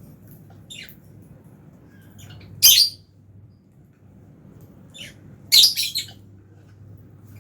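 Lovebirds giving sharp, shrill squawks: one about two and a half seconds in and a quick run of three a little after five seconds, with softer chirps in between, over a faint steady hum.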